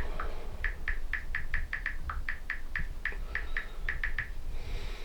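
Phone touchscreen keyboard tap sounds as a question is typed in: a quick, irregular run of about twenty short high ticks that stops near the end.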